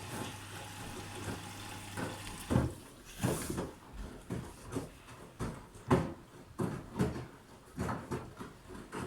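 Bosch washing machine: a steady low hum that stops about two and a half seconds in, then the drum turning with the laundry tumbling, giving irregular thuds and swishes about twice a second.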